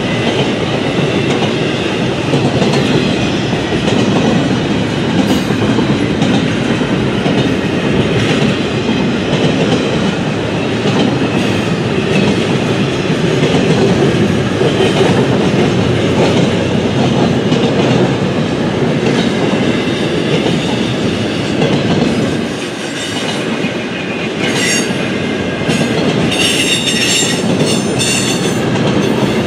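Double-stack intermodal freight train rolling steadily past: a continuous rumble and clatter of steel wheels on the rails under container-laden well cars. A high-pitched wheel squeal rises over it for a few seconds near the end.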